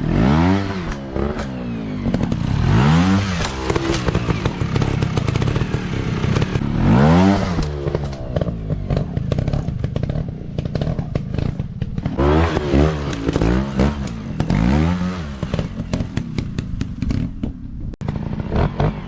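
Dirt bike engines revving in repeated throttle blips, pitch rising and falling every second or two, with clattering.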